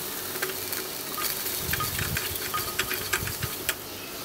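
Chopped onions and ginger-garlic paste sizzling in hot oil in a pressure cooker pan, with scattered light scrapes and taps of a silicone spatula stirring them.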